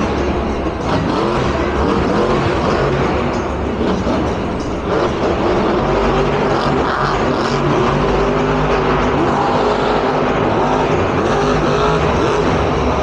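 Monster truck's supercharged V8 engine revving hard, its pitch rising and falling over a loud, steady rumble.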